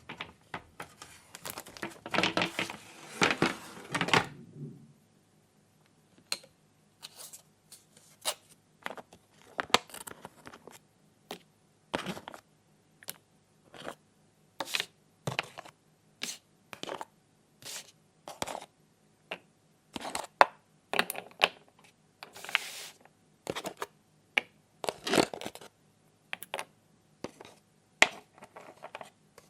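Small plastic toy pieces being handled and set down, making irregular sharp clicks and taps about once a second. A rustling, tearing sound fills the first few seconds, and two shorter ones come later.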